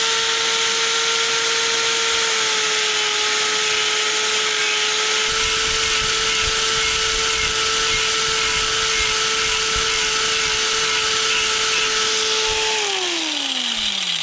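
Small high-speed electric rotary tool running steadily while grinding down the plastic housing of an idle control valve connector. Near the end it is switched off and its whine falls in pitch as it spins down.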